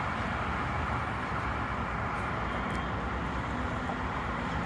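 Steady outdoor background rumble, an even noise with no distinct events.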